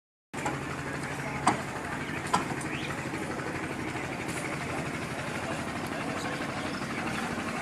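An engine running steadily, with two sharp knocks about one and a half and two and a half seconds in.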